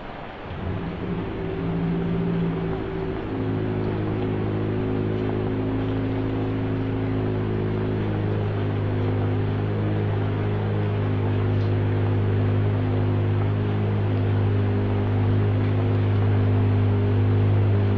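Rain falling steadily, with slow, low sustained background music coming in about half a second in, its held notes changing pitch now and then.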